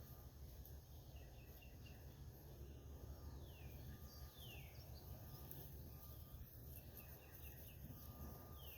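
Near silence with faint outdoor birdsong: a few short whistles falling in pitch, about four seconds apart, and brief runs of chirps, over a low steady rumble.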